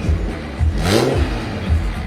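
A BMW performance car's engine revving, its pitch rising sharply about a second in, over background music with a steady beat.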